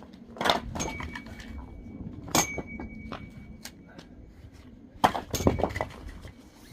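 Firewood, a hard zelkova log, being split by hand: two heavy strikes about two seconds apart, each leaving a metallic ring, then a quick run of cracks and knocks near the end.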